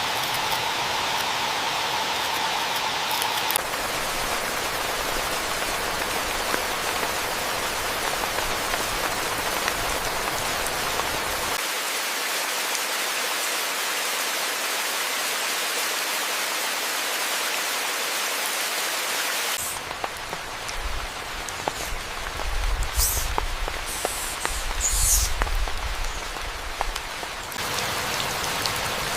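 Rain falling, a steady even hiss. For several seconds in the latter part it gives way to a quieter stretch with a low rumble and a few brief high-pitched sounds, then the rain hiss returns near the end.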